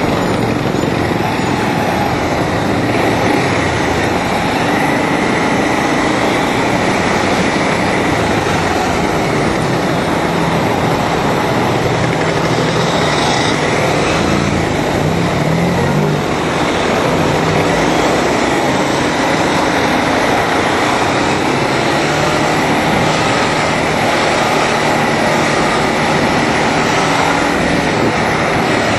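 200cc Bajaj Pulsar (Rouser) motorcycle's single-cylinder engine running at speed, heard from onboard under a steady rush of wind and road noise.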